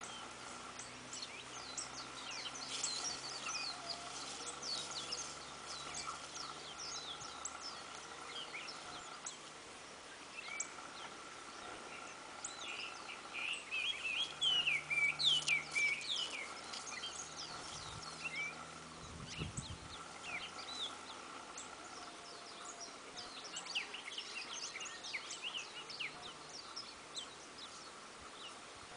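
Small birds chirping in many short, quick calls, busiest and loudest for a few seconds about halfway through, over a faint steady high tone.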